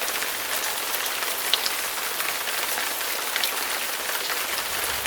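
Heavy rain pouring down: a steady hiss with the sharp patter of individual drops.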